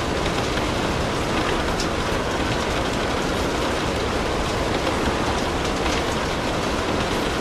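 Steady rain mixed with a crackling fireplace fire, a few faint sharp crackles standing out now and then.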